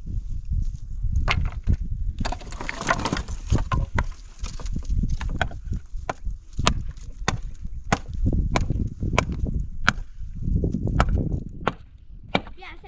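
A series of sharp knocks or blows, coming about once every half second to second through the middle of the stretch, over a steady low rumble.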